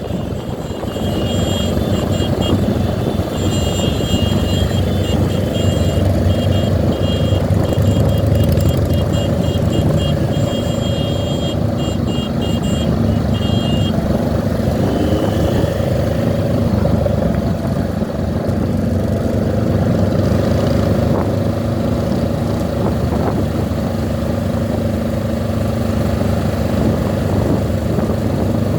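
Motorcycle engine running steadily while riding, most likely the Honda CB 500X's parallel twin heard from on board. For about the first half, a high-pitched tone sounds in short, broken pulses over the engine, then stops.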